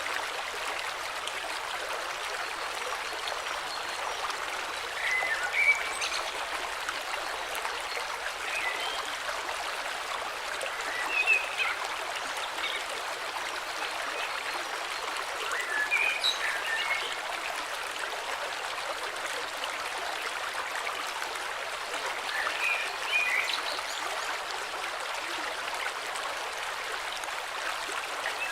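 A river flowing steadily, with short bird chirps breaking in now and then, about five times.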